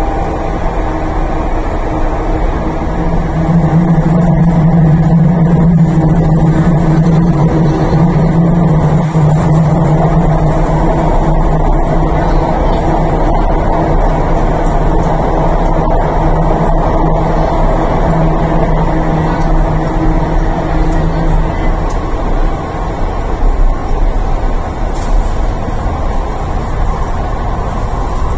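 Inside a carriage of an MTR East Rail Line R-Train electric multiple unit running through a tunnel: steady rumble of wheels on track and running noise, with a low steady traction motor hum that dies away about 21 seconds in.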